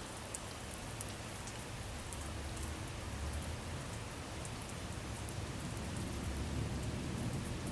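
Steady rainfall: an even hiss with scattered sharp drop ticks, over a low rumble that grows slightly louder after the first couple of seconds.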